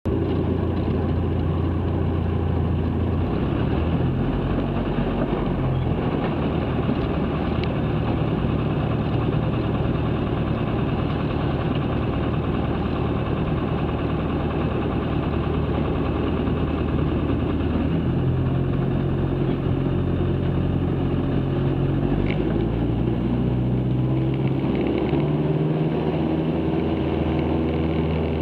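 The Cessna 162 Skycatcher's four-cylinder Continental O-200 engine and propeller running steadily, heard from inside the cabin. Its pitch shifts up and down a few times in the second half.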